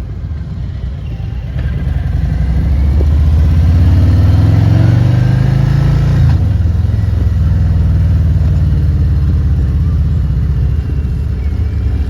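Motorcycle engine under way, its pitch climbing steadily as it accelerates, dropping sharply about six seconds in, then running steadily at cruising speed.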